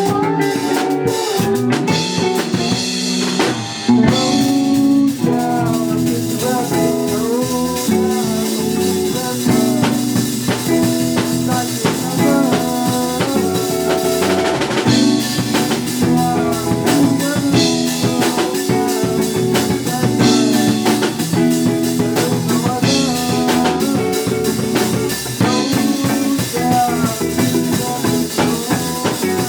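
Live band playing loudly: a drum kit with frequent hits under guitars playing shifting chords and lines.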